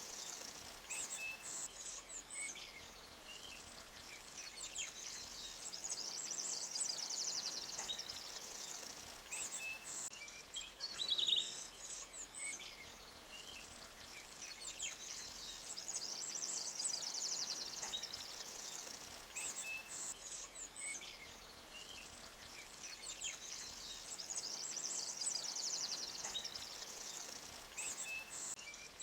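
Small birds chirping and singing high, rapid trills in bursts every few seconds, over the faint steady rush of a forest stream.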